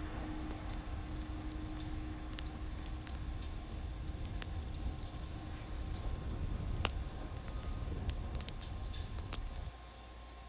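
Wood fire crackling: irregular sharp pops and snaps over a steady hiss, cutting off suddenly near the end.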